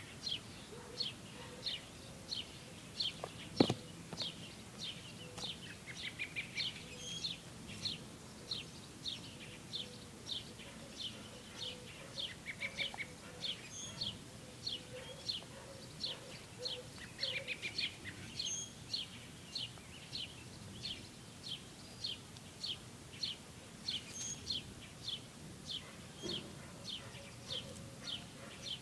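A bird chirping over and over, about two short chirps a second, with a few brief trills mixed in. A single sharp knock about three and a half seconds in.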